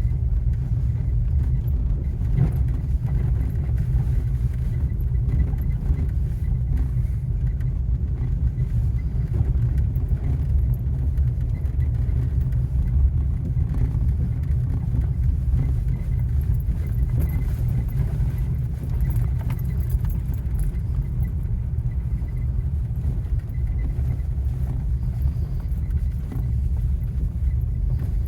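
Vehicle driving along an unpaved road, heard from inside the cab: a steady low rumble of engine and tyres.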